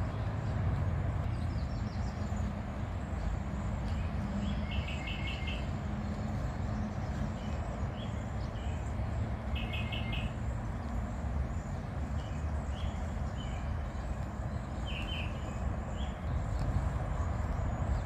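Wild birds chirping in a few short bursts of quick repeated notes, scattered through, over a steady low outdoor rumble.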